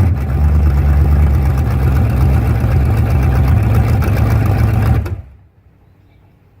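The 6.6-litre V8 of a 1979 Pontiac Trans Am running steadily with a deep rumble, then cutting off suddenly about five seconds in, leaving faint background music.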